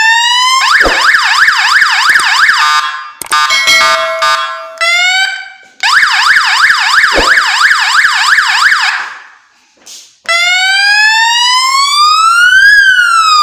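Multi-tone electronic siren horn for a motorcycle, loud, sounding through its patterns. A rising wail gives way to a fast up-and-down yelp, then a short stepped tone and another long yelp. After a brief pause comes one slow wail that rises and then falls.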